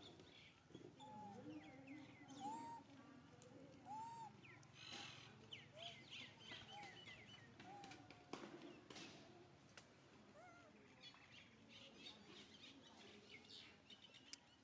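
Faint outdoor bird calls: short arched notes repeating every second or so, with higher chirps and twittering over them and a few soft clicks.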